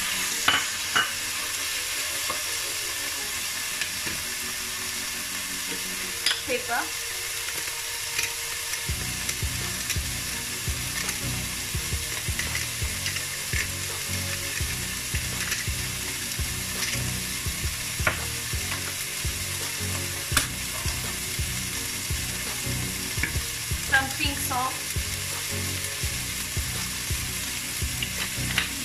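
Chicken pieces sizzling steadily in very hot olive oil in an electric skillet, with scattered sharp clicks and taps. A low pulsing rumble joins underneath about nine seconds in.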